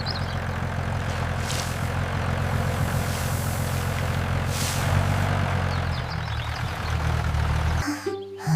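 Tractor engine running with a steady low rumble. It shifts in pitch about five seconds in and cuts off abruptly near the end.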